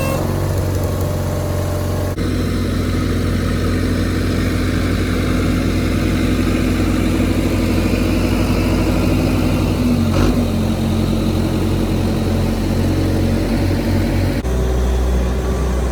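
Heavy equipment engine running steadily at a low, even pitch, with abrupt changes in the sound about two seconds in and near the end, and a single knock about ten seconds in.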